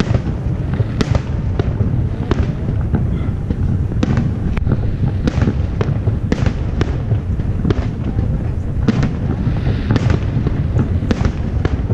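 Aerial firework shells bursting in quick succession: sharp booms about two a second over a continuous low rumble of explosions.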